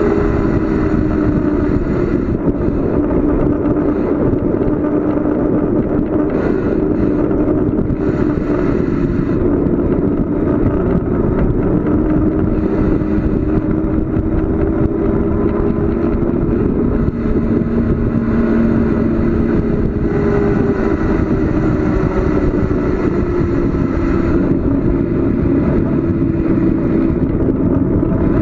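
Wind and road noise on the microphone of a bicycle coasting down a long paved descent: a loud, steady rush with a faint hum that drifts slowly in pitch.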